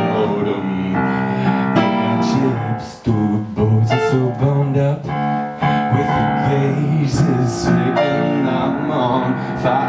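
Piano-led song music playing full chords, an instrumental passage with no sung words.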